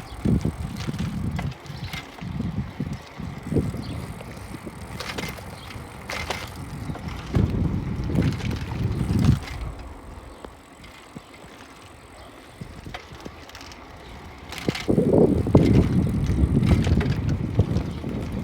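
Bicycle ride with wind buffeting the microphone in uneven gusts and light clicks and rattles. It eases off a little past the middle and comes back strongly near the end.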